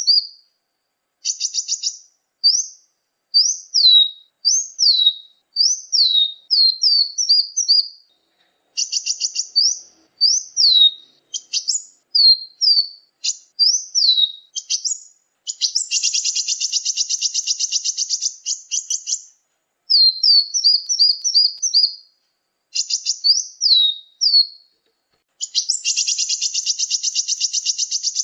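Recorded small-songbird calls played as a bird-trapping lure: phrases of high, sharp down-slurred chirps separated by short gaps, with a long rapid trill about halfway through and another near the end.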